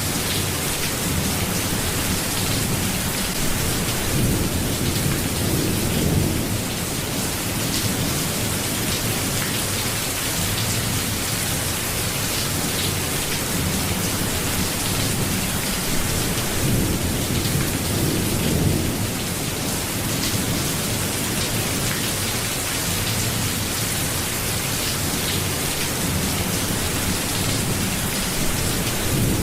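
Steady, dense rain, with low rumbles swelling up about three times.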